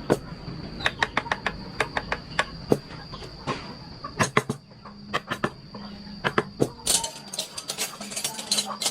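Hand carving: a chisel struck with a mallet into wood, giving sharp irregular taps several times a second. A steady high whine runs underneath.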